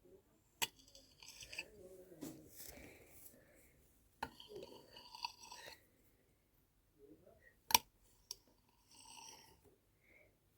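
Flattened sand crunching and crackling in several short bursts, with a few sharp clicks; the loudest click comes a little past the middle.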